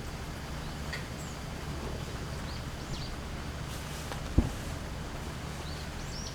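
Several short, high chirps of small birds, each a quick rising-and-falling call, over a steady low background rumble. A single sharp low thump about four seconds in is the loudest sound.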